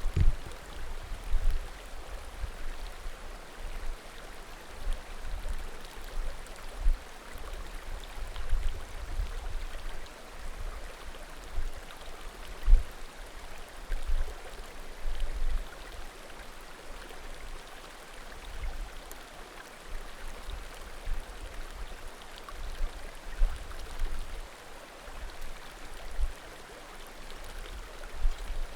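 A small mountain creek murmuring steadily, with faint pops from burning firewood. Irregular low rumbling thumps come and go throughout and are the loudest thing heard.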